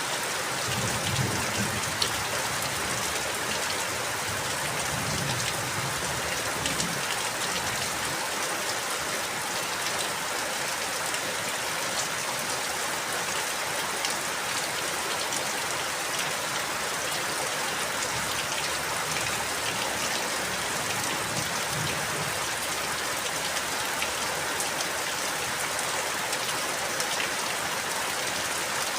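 Steady rain falling, an even hiss with many small drop ticks, and a faint low rumble now and then.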